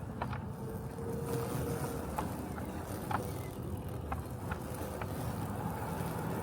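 Robotic lawn mower running steadily with a low mechanical hum, with a few light clicks scattered through it.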